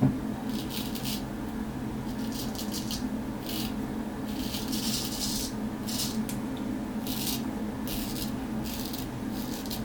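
Straight razor strokes scraping through stubble lubricated with hair conditioner: a series of short, irregular scratchy strokes over a steady low hum.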